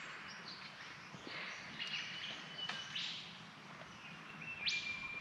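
Wild birds calling over a faint outdoor background: thin whistled notes, and near the end a quick call sweeping sharply upward.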